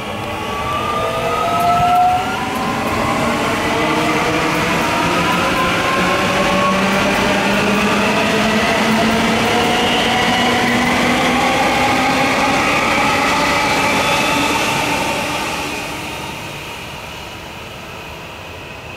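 Queensland Rail electric train running past, its motors giving several whining tones that rise slowly in pitch as it gathers speed, fading away near the end.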